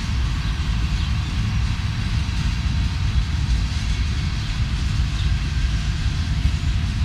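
Freight train passing on the main line, a steady low rumble.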